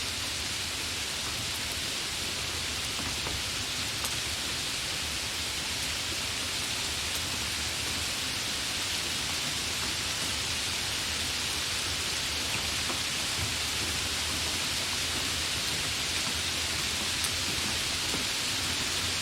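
Steady rain falling, an even hiss with a couple of faint ticks of single drops.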